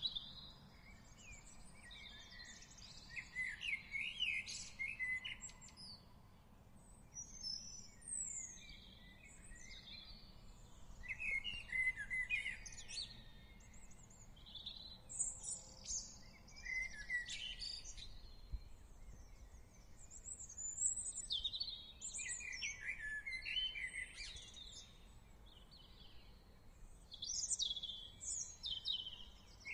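Songbirds singing and calling in a garden, phrase after phrase with short pauses between, over a faint low background rumble.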